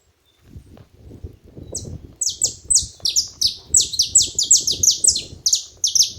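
Saffron finch calling: a rapid series of sharp, high notes, each sliding quickly downward, about three or four a second, starting nearly two seconds in. A low rustling patter runs underneath.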